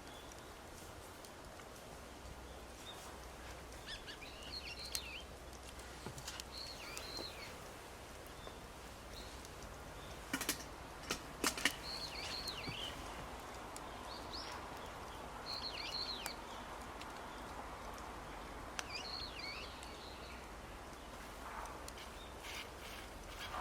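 Outdoor birds calling, short high chirping phrases repeated every few seconds, over a quiet steady background. A few sharp clicks come about halfway through.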